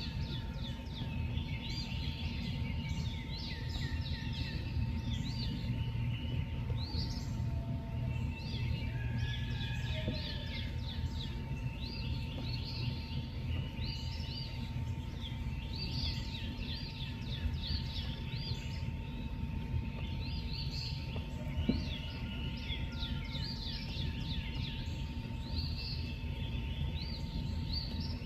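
Several birds chirping and singing over one another in short, repeated phrases, over a steady low rumble of outdoor background noise and a faint, unbroken single tone.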